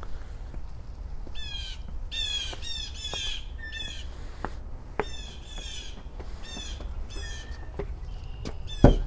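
Blue jays giving repeated harsh, downslurred jay calls, described as angry; typical of jays scolding or alarm-calling. A loud knock comes near the end.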